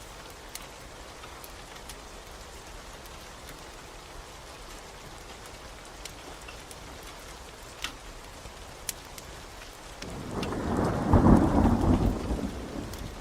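Steady rain with a few sharp pops from a crackling wood fire. About ten seconds in, a roll of thunder rumbles in loudly and begins to fade.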